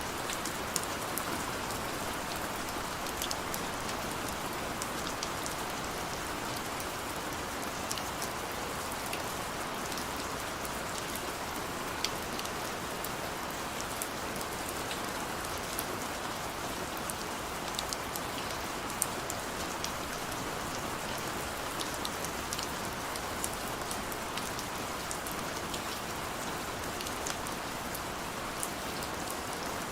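Steady heavy rain falling, a continuous hiss with many distinct drops pattering on hard surfaces.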